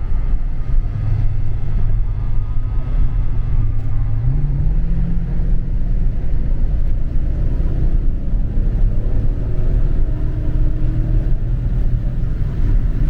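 Dodge Charger Scat Pack's 392 (6.4-litre) HEMI V8 running under way with a steady low drone and road rumble. About four seconds in, the engine note steps up in pitch, then holds.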